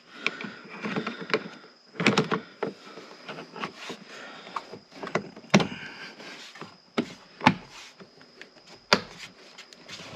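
Irregular clicks and knocks of plastic car interior trim being handled and pressed into place, with a few sharper snaps.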